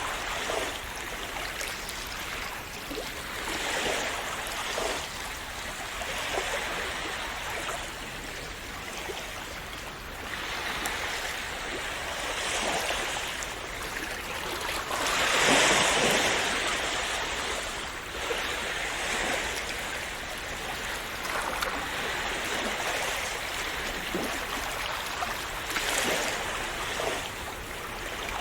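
Calm sea waves washing and splashing onto the shore, a continuous wash that swells in surges every few seconds; the biggest surge comes a little past the middle.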